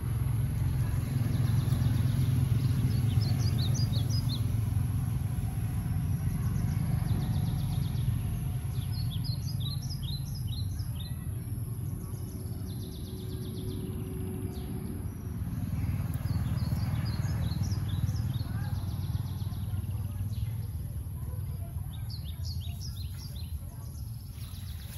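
Small birds chirping in four short bursts of quick high notes, spaced a few seconds apart, over a steady low rumble and a faint steady high whine.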